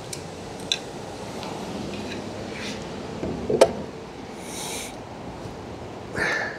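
Camp cooking gear being handled: a few light clicks, a sharp knock a little after three seconds, a brief rustle, and a louder scuff near the end, over a steady hiss.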